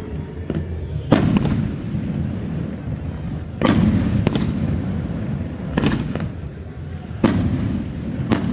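Fireworks display: about half a dozen sharp bangs of bursting shells at uneven intervals, each trailing off in a rolling rumble, over a continuous low rumble of further bursts.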